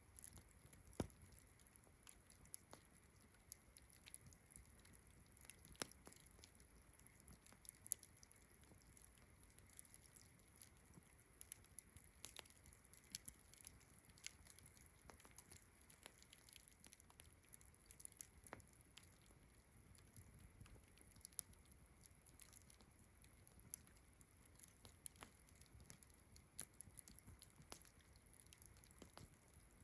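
Quiet campfire crackling, with irregular sharp pops and snaps of burning wood, over a steady high chirring of crickets in the background.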